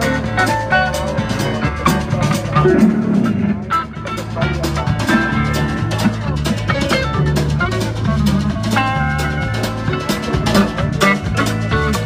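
Live band playing an instrumental passage: a drum kit keeping a steady beat, a moving bass line, and guitars holding sustained notes.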